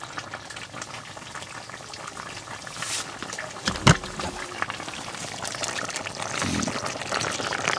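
Braised kimchi stew (kimchi jjim) bubbling in its pot on a wood stove, with dense popping and crackling. A single sharp knock sounds just before four seconds in.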